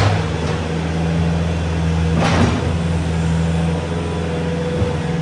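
A vehicle engine running steadily at an even pitch, with two short rushing noises over it, one at the start and one about two seconds in.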